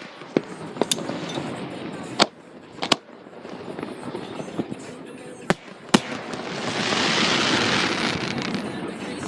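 Fireworks going off: about six sharp separate bangs, then a louder rushing hiss that swells up about two-thirds of the way in and fades near the end.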